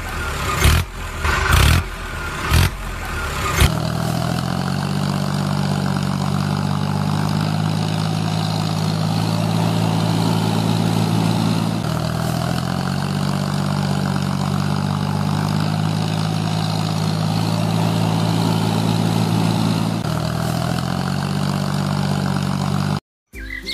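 A few sharp knocks and clatter, then an engine running steadily with a low, even hum for the rest of the stretch.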